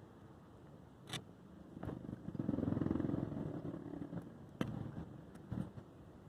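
Low rumble of passing traffic that swells for a couple of seconds and fades, with two sharp clicks, one about a second in and one past the middle.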